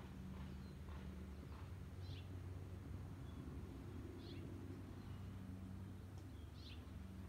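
A bird calling in short, high, falling chirps about every two seconds over a faint, low, steady hum.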